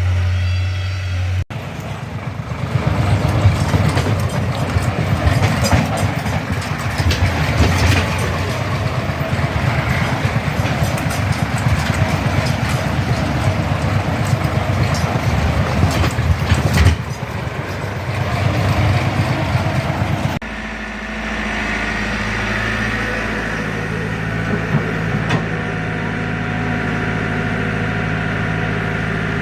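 Tractor diesel engines: one running hard with a rough, clattering sound, then, after an abrupt cut about twenty seconds in, another idling steadily.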